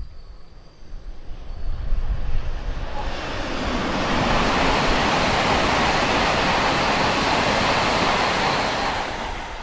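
Taiwan High Speed Rail 700T electric train passing at speed: a rushing noise that builds over the first few seconds, holds loud and steady for about five seconds as the cars go by, then fades near the end.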